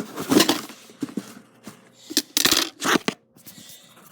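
A package being torn open by hand: a few short ripping and rustling bursts of packaging, the loudest about two and a half seconds in.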